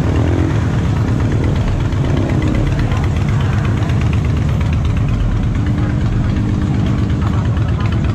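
Motorcycle engines idling steadily, a close engine running with an even low rumble.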